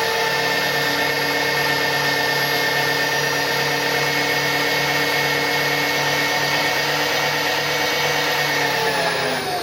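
Milling machine spindle with a shell mill running steadily with an even motor whine, then switched off near the end, its pitch falling as it spins down.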